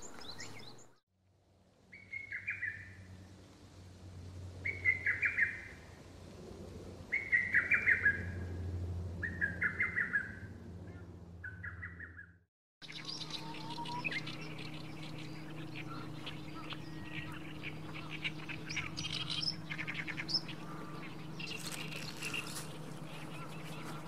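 Birdsong in two parts. First a bird repeats a short whistled phrase five times, a couple of seconds apart. Then, after a sudden cut about halfway through, a continuous high, busy twittering song plays over a low steady hum.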